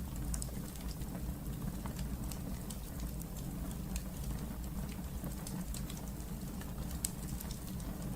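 Wood fire burning in a fireplace: a steady low rumble of flames with frequent small crackles and pops, and one sharper pop about seven seconds in.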